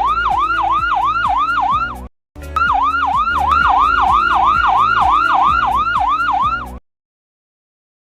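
Ambulance siren in a fast yelp, sweeping down and up about three times a second over a low steady backing with a regular tick. It breaks off briefly about two seconds in, resumes, then stops abruptly about a second before the end.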